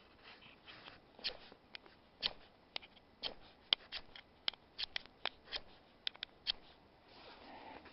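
Ferro rod (fire steel) struck again and again with a scraper, short sharp rasping scrapes about two or three a second, as it throws sparks onto a paper tissue that will not catch because of the damp.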